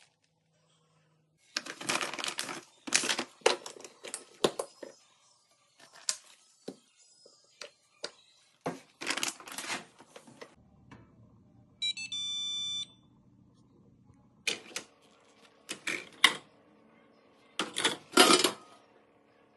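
Clicks and clatter of a dishwasher's racks, door and items being handled, with a single electronic button beep about twelve seconds in, after which a low steady hum runs under the further clatter.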